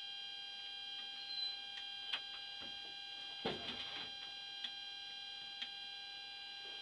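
Steady high-pitched whine made of several fixed tones, with a few scattered clicks and a short rustle about three and a half seconds in.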